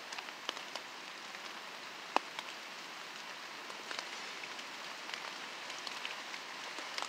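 Steady rain falling on a tarp overhead, with scattered sharper drops ticking on it and one louder tap about two seconds in.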